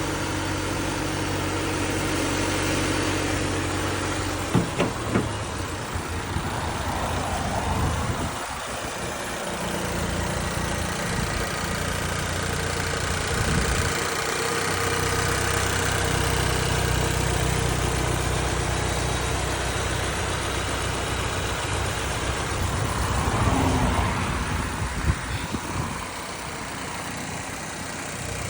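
2023 Subaru Forester's 2.5-litre flat-four engine idling steadily. A few sharp clicks come about five seconds in and again near the end.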